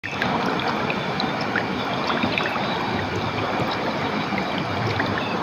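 Clear water running and splashing: a steady rush with many small scattered plinks.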